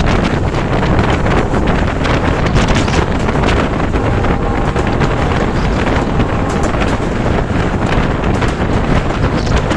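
Heavy wind buffeting the microphone over the steady running rumble of a Bangladesh Railway passenger train at speed, heard from an open window or door of a coach.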